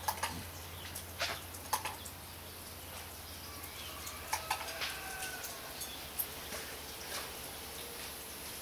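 Birds calling in short, faint chirps, with scattered sharp taps and clicks and a steady low hum.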